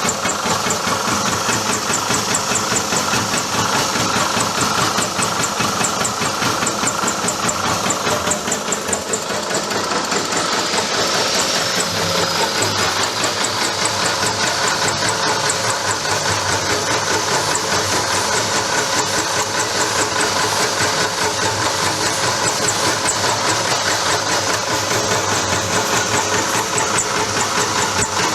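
A motor-driven almond and cashew topping chopper running steadily, a continuous mechanical drone with a fast, even rattle of fine ticks.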